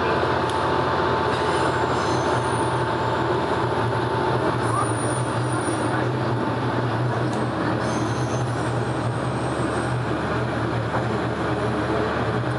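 Diesel railcar under way, heard from inside the car: a steady engine and running drone. A thin wheel squeal holds for the first half, and short high squeals come three times as the wheels take a curve.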